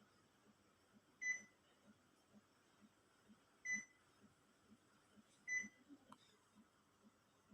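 Panasonic split air conditioner's indoor unit giving short electronic beeps, three times about two seconds apart, the acknowledgement tone each time it receives a command from the remote.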